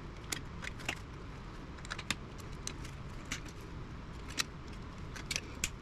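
Scattered light metallic clicks and ticks of hand tools and small metal parts being handled while components are pulled and snipped out of an old radio chassis, about a dozen irregular clicks.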